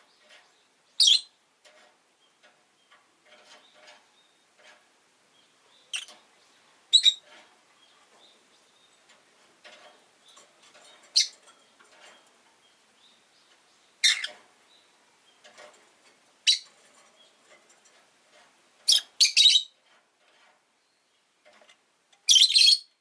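Rosy-faced lovebirds calling: short, shrill, high chirps at irregular intervals, about nine loud ones, with quieter chattering between them and a longer burst of calls near the end.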